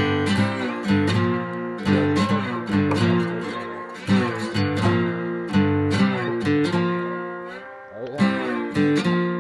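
Music: an acoustic guitar strumming chords, each strum ringing out before the next.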